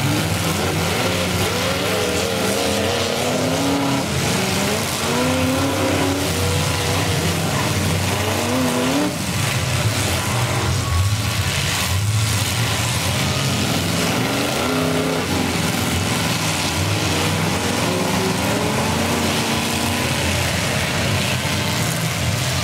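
Engines of several demolition derby cars revving and running hard, their pitch rising and falling again and again as they accelerate and back off.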